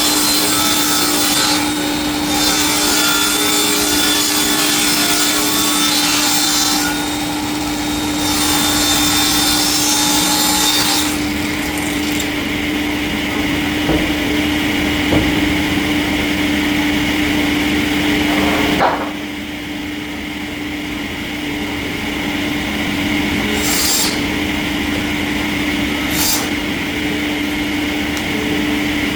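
Multi-blade circular sawmill cutting through a log: a steady motor hum under a loud hissing cut that dips briefly twice. The cut ends partway through and the saw runs on more quietly, with two short hissing bursts near the end.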